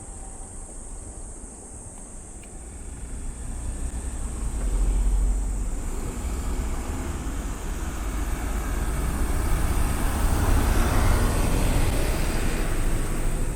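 Road traffic and wind rush picked up by a microphone on a moving road bike, a steady rumble that swells about four seconds in and stays loud, with a hissing rise from passing traffic near the end.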